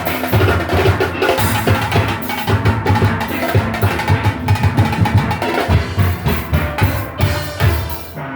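Steel orchestra playing: steel pans over a driving drum-kit rhythm, with a brief drop in the music near the end.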